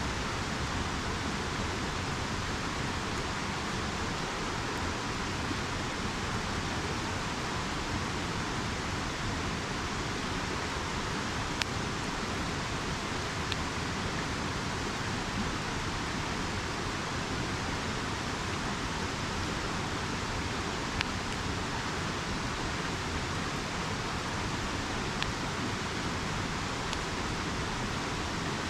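Steady rush of a river, with a handful of sharp pops from a wood campfire.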